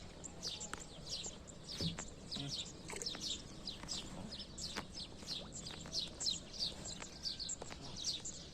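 A flock of small birds chirping together: a dense, continuous chatter of short, quick downward chirps, with a few faint knocks underneath.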